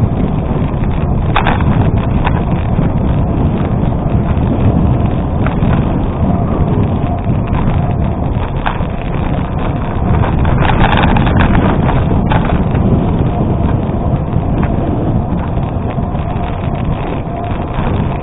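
Wind buffeting the microphone over the rumble of a gravel bike's tyres rolling on an unpaved road, with scattered brief clicks. It gets louder and rougher for a couple of seconds about ten seconds in.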